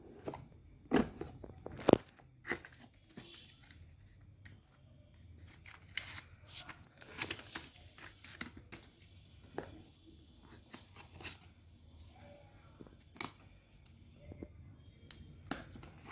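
Handling of a smartphone's retail packaging: two sharp knocks in the first two seconds, then scattered clicks and a stretch of rustling and tearing of wrap and cardboard about six to eight seconds in.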